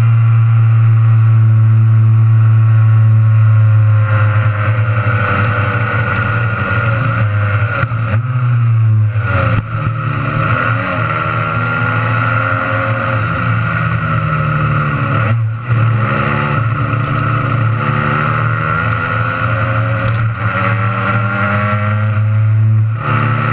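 Fully modified Honda NSR50 single-cylinder two-stroke racing engine running hard, its pitch holding steady at first, then falling and climbing again several times, with sudden drops about nine and fifteen seconds in and near the end.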